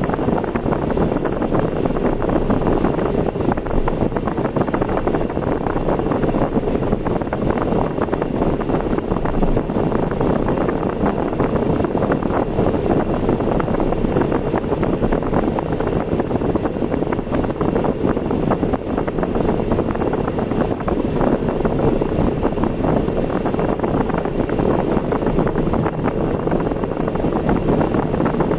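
Car driving along a road: steady engine and tyre noise with no changes.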